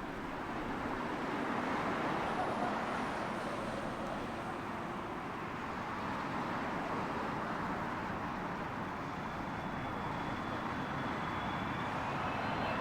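Jet airliner on final approach, its engine noise a steady rush that grows slowly louder, with a high fan whine coming in near the end.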